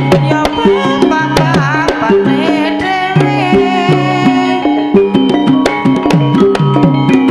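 Javanese gamelan music: hand-drum strokes over repeating ringing pitched notes, with a wavering melodic line about one and a half to two and a half seconds in.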